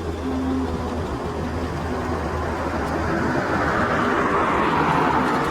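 Steady engine drone and road noise of a moving vehicle, swelling a little louder about two-thirds of the way through.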